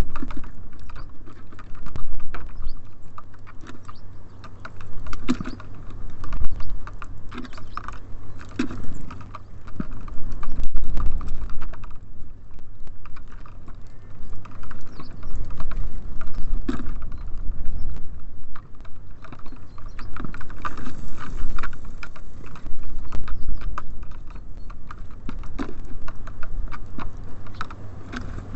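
Small birds pecking and hopping on a bird feeder: a steady stream of irregular sharp taps and clicks as beaks strike seed and the feeder board.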